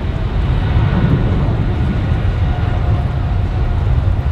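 Jet airliner engines rumbling loudly, with a few faint steady whining tones above the deep roar.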